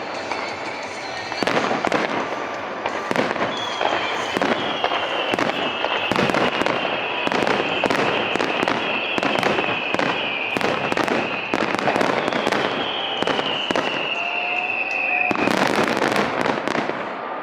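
Aerial fireworks bursting in quick succession, a steady barrage of sharp bangs with a high whistle slowly falling in pitch through the middle, and the densest, loudest volley near the end.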